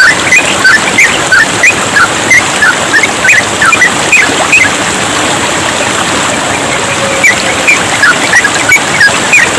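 Sooty-headed bulbul (trucukan) chattering in quick, short chirps, several a second, over the steady babble of running water. The chirping pauses for a couple of seconds in the middle, then picks up again.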